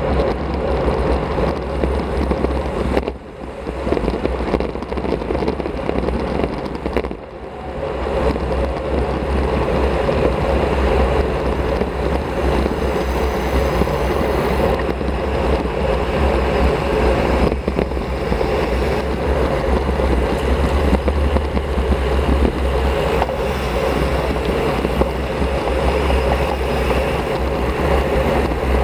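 Wind rushing over a Shimano CM-1100 action camera's microphone on a road bike at riding speed, a steady loud rumble that drops away briefly twice, about three and seven seconds in.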